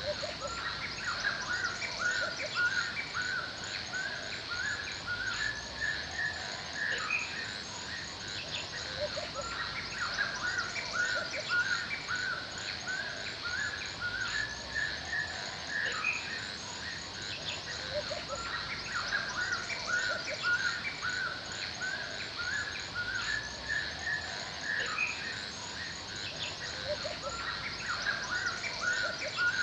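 Forest ambience: birds chirping and singing in quick repeated phrases throughout, over a steady high insect trill.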